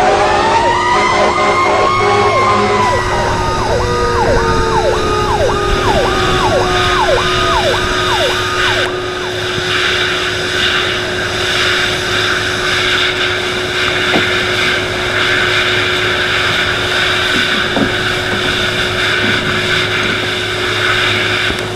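Emergency vehicle sirens: one long rising-and-falling wail and a fast repeating yelp, about two sweeps a second. About nine seconds in the sirens give way to a steady, loud rumbling noise with a constant hum.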